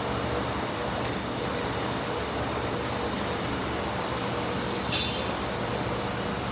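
Steady mechanical background rumble with a faint constant hum, as of machinery running nearby, while a DPF assembly is set in place. About five seconds in comes one short, sharp, high-pitched burst of noise.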